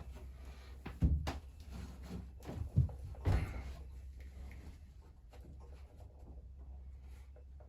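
A few sharp knocks and clatters, the loudest in the first half, over a steady low hum.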